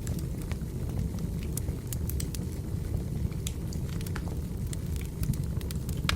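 Firewood burning in a fireplace: a steady low rumble of the flames with irregular sharp crackles and pops, one louder pop near the end.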